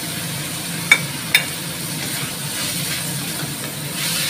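Vegetables sizzling in a stainless steel wok as they stir-fry, a steady hiss, with two sharp metallic clinks about a second in.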